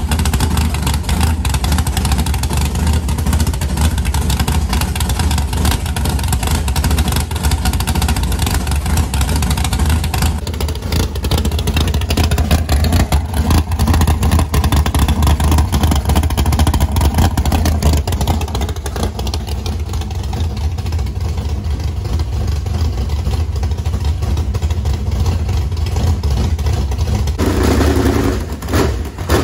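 Chevrolet V8 race engine in a modified running steadily and loudly, just started to circulate a fresh fill of oil after an oil change.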